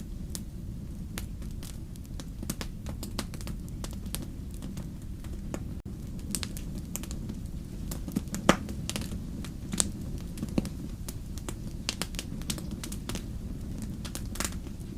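Wood fire crackling: irregular pops and snaps over a steady low rumble, with one louder pop about eight and a half seconds in.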